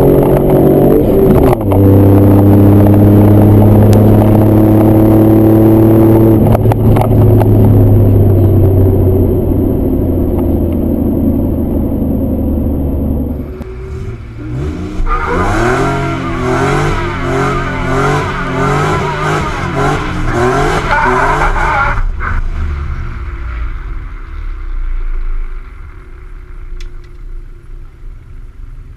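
Supercharged Nissan V6 engine of a 1995 Pathfinder running loud at high, steady revs under hard acceleration, easing off about halfway through. A stretch of fast-wavering, higher-pitched sound follows, then the engine settles quieter near the end.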